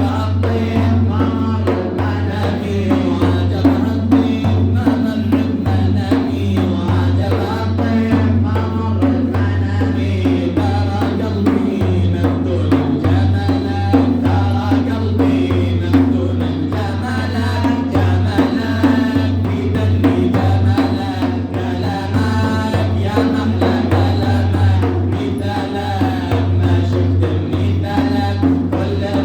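Sung Sufi madih, a religious praise song, with a voice singing a wavering melody over steady drumming and a low droning accompaniment.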